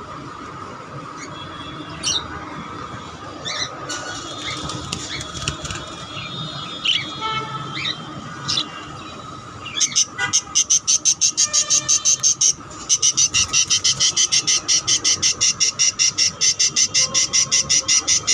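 Small pet bird chirping in scattered short calls. About halfway in, it breaks into a fast, even run of high chirps, about five a second.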